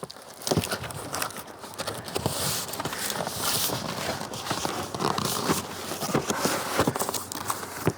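Cardboard packaging being handled: rustling and crinkling with scattered short knocks and taps.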